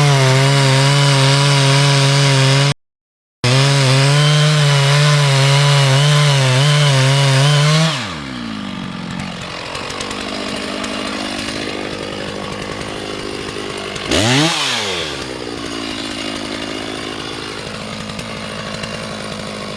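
Two-stroke chainsaw running at full throttle, its pitch wavering slightly as the chain works into the wood of a tree being felled, with a sudden half-second gap of silence about three seconds in. About eight seconds in it drops to idle, then revs up and down once near fifteen seconds and goes back to idling.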